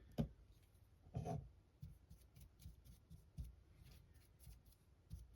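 Faint desk handling sounds: scattered small taps and clicks, with a couple of sharper knocks at the start and a short scuff about a second in.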